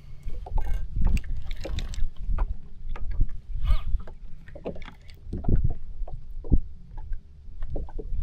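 Irregular knocks and small splashes of water against a jet ski's hull as it drifts, over a low rumble of wind on the microphone.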